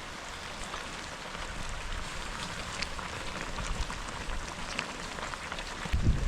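Steady rain shower falling, an even hiss with scattered taps of individual drops. A low rumble comes in near the end.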